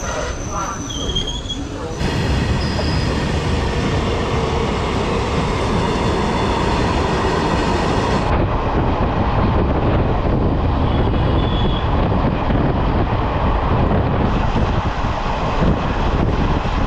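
Passenger train coach running along the track: a steady rumble and rattle of wheels on rails that grows louder about two seconds in, with a few faint, brief high squealing tones.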